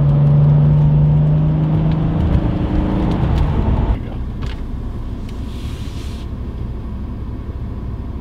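Interior sound of a Mercedes C36 AMG's 3.6-litre straight-six under way: a steady engine drone over road rumble. About four seconds in it drops abruptly to a quieter, steady low rumble.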